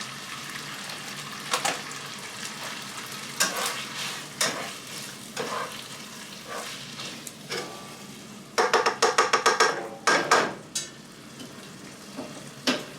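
Taco meat sizzling in a frying pan on a gas range, with a utensil stirring and knocking against the pan. A quick run of sharp clatters comes about two-thirds of the way through.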